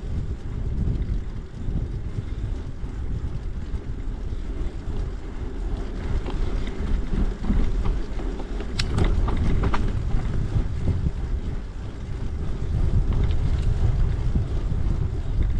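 Wind buffeting the microphone during a bicycle ride, a steady low rumble mixed with tyre noise on the trail. A short cluster of sharp clicks and rattles comes about nine seconds in.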